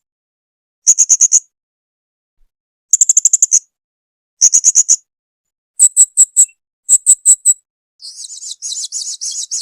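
Blue-crowned hanging parrot (serindit) calling: five short bursts of rapid, high, thin chirps with gaps of silence between them, then a longer, buzzier chatter near the end.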